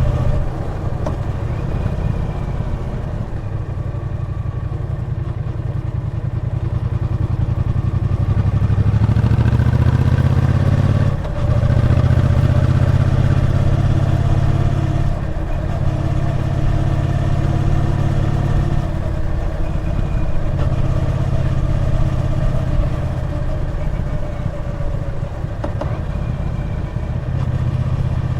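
Triumph Bonneville T120's parallel-twin engine running under way on the road, its note rising steadily and then broken by short dips, the sharpest about eleven seconds in and others a few seconds later.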